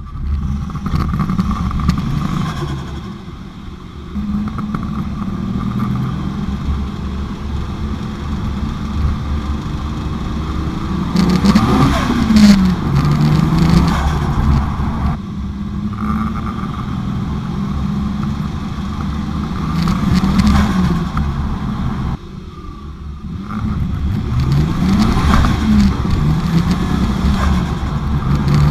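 Turbocharged 1JZ-GTE VVT-i straight-six in a Nissan Silvia S15 drift car, running and being revved. The engine note climbs and falls several times, with the sound cutting away abruptly a few times.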